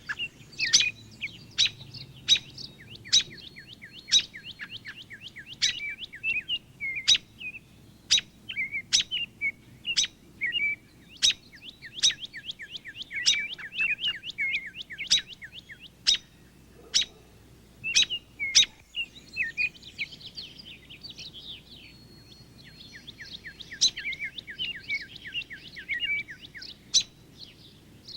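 Several songbirds singing and calling together: rapid trills of short down-slurred notes, punctuated throughout by loud, sharp chip notes.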